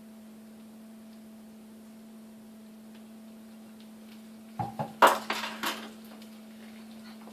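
A steady low hum, then about four and a half seconds in a short burst of clinks and knocks as a spoon strikes a Pyrex glass bowl.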